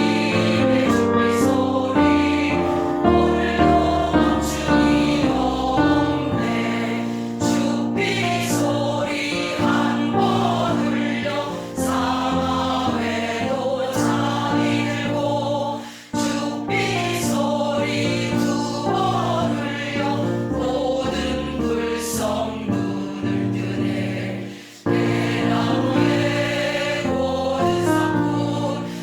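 A choir singing in unison over musical accompaniment, with sustained notes and vibrato; the music dips briefly twice, about two-thirds of the way in and again near the end.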